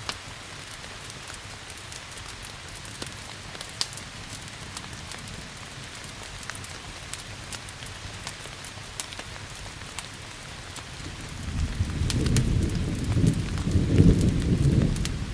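Steady rain with scattered sharp crackles of a wood fire. About eleven seconds in, a low roll of thunder builds and rumbles on, loudest near the end.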